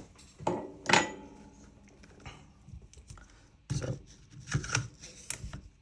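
Clinks and knocks of Krytac Kriss Vector airsoft gun parts being handled and set down. A loud knock comes about a second in, and a cluster of clicks comes near the end.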